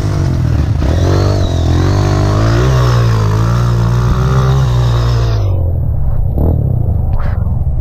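Honda CRF trail bike's single-cylinder four-stroke engine revving up and down as it is ridden, heard from onboard. About five seconds in the high end drops out and the sound turns muffled.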